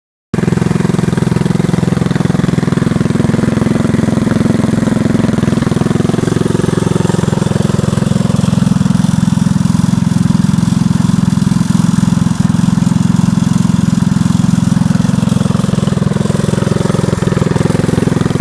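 Go-kart's small single-cylinder four-stroke engine (a Honda GX160/200-type) running loud through a Stinger performance exhaust. It cuts in abruptly just after the start, and its note shifts somewhat in the middle.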